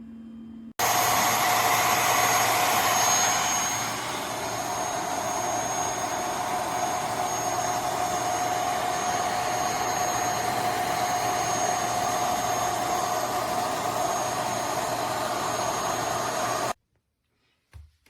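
UWANT M100 futon cleaner (handheld mattress vacuum) running: a steady motor whine over a rushing suction hiss that starts abruptly about a second in, eases slightly after a few seconds and cuts off suddenly near the end, followed by a single short click.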